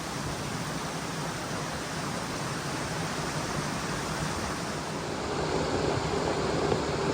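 Steady rush of a mountain stream's flowing water, growing somewhat louder near the end.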